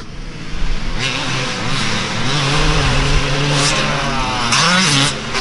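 Dirt bike engine revving as it is ridden round a motocross track, pitch holding, dropping and climbing again through the gears, with a fresh climb near the end.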